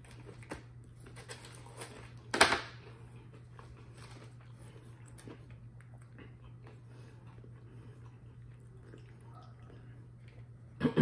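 A person chewing a mouthful of crispy breaded fried chicken tender, with faint crunching and mouth clicks, and one short loud burst of noise about two and a half seconds in. A steady low hum runs underneath.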